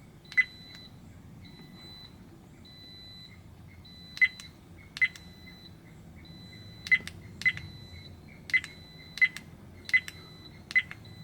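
Dash camera buttons pressed about nine times at irregular intervals while scrolling its menu, each press a sharp click with a short high beep. A fainter high beep repeats about once a second underneath.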